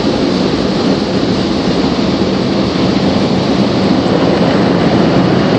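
Belanger Mini Tunnel car wash equipment working on the car, heard from inside the cabin as a loud, steady rushing noise.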